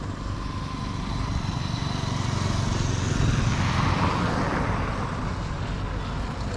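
A motor vehicle passing by on the road, its engine and tyre noise swelling to a peak a few seconds in and then fading.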